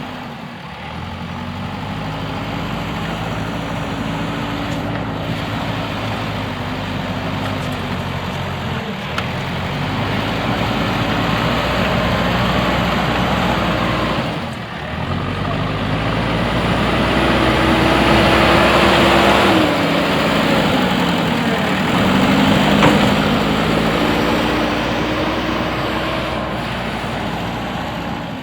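JCB backhoe loader's diesel engine running under working load, its pitch rising and falling as the hydraulics work, loudest in the second half.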